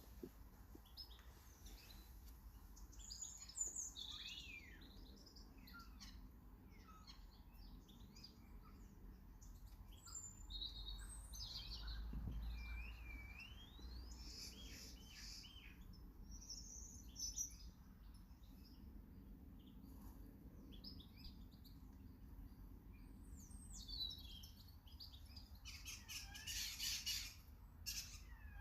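Small garden birds chirping and calling, with many short high chirps and whistled notes sliding up and down in pitch, and a busier, louder run of calls near the end.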